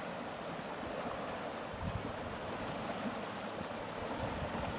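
Floodwater rushing steadily through and over an overwhelmed 6-foot culvert, with low wind rumble on the microphone.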